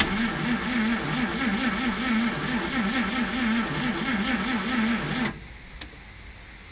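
Starter motor cranking the 1948 Plymouth's flathead six-cylinder engine on a cold start, its pitch wavering up and down with each compression stroke. It cranks for about five seconds and then stops abruptly.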